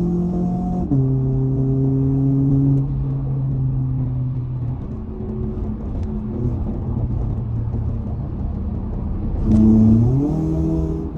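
Toyota 86's flat-four boxer engine running under way: its pitch drops suddenly about a second in and holds steady, then rises for about a second near the end as it revs up.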